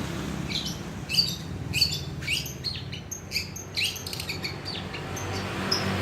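Long-tailed shrike (cendet) singing a fast, irregular run of short, sharp chirps that mimic a lovebird's calls, over a steady low hum.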